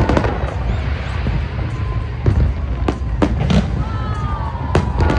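Fireworks bursting: a string of sharp, separate bangs over a steady low rumble, with a few falling whistling tones.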